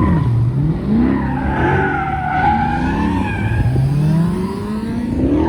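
A car's engine revving up and down repeatedly while its tires squeal continuously, as in a burnout or donuts.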